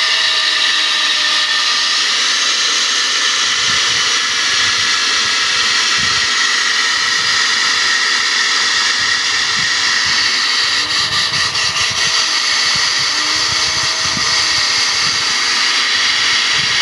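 Water-fed diamond core drill boring through a thick house wall, running steadily under load: an even, high-pitched grinding whine with a faint wavering hum beneath it.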